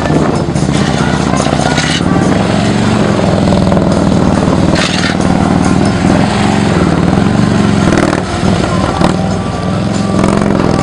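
Motorcycle engine running through low-speed manoeuvres, its pitch rising and falling as the throttle is worked on and off.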